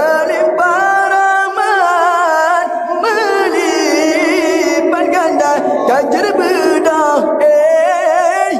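Music with singing: long held, wavering notes with ornamented runs in a chant-like melody.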